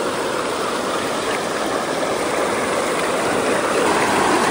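Steady rush of flowing creek water, growing slightly louder near the end.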